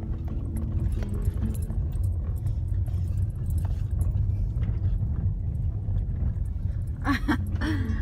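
Car driving slowly over a rough dirt road, heard from inside the cabin: a steady low rumble with small knocks and rattles. A short vocal sound comes in near the end.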